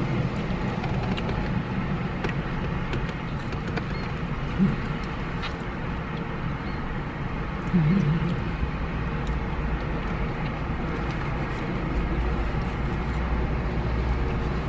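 Steady low rumble like a car cabin with the engine running, with a few faint clicks and small sounds of eating.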